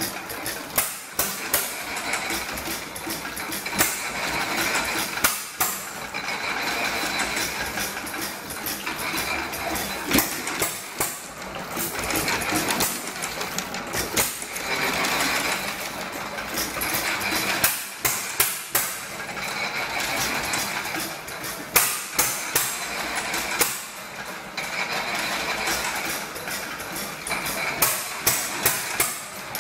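Small 1¼ hp Monitor hit-and-miss engine running a pump jack and water pump, with sharp knocks coming in clusters and a rush of noise swelling every two to three seconds as the pump strokes.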